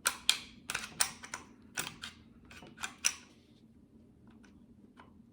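Sharp metallic clicks and clacks of a pistol being handled and put back together after cleaning, about ten in quick, uneven succession over the first three seconds, then a few faint ticks.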